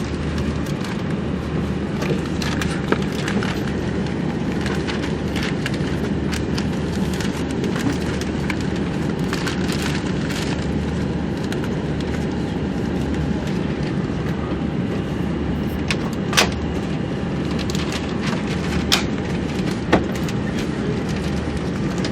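A steady low hum and rush inside the cabin of a parked Airbus A340-600, with a few sharp clicks in the second half.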